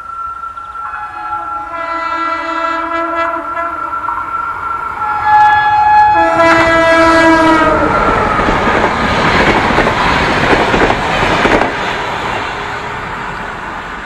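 RENFE class 269 electric locomotive sounding its horn in two long blasts, the second dropping in pitch as the locomotive passes at speed. The loud noise of its passenger coaches running by follows.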